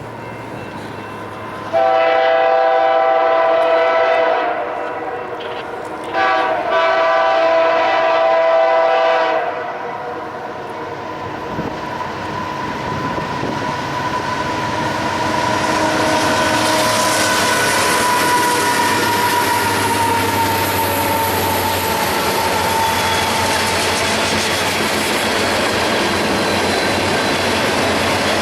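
Diesel locomotive's multi-chime air horn sounding two long blasts, then a freight train rolling past, its rumble and rail noise growing louder and holding steady, with a thin high whine.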